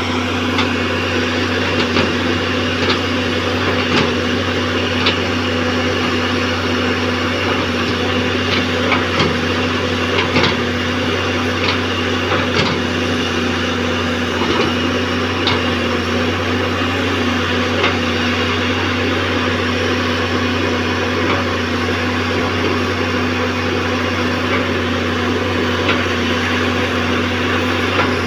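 Caterpillar hydraulic excavator's diesel engine running steadily under load while the machine works to free itself from deep mud, its travel motors too weak to climb out. Scattered sharp clanks from the tracks and arm, more frequent in the first half.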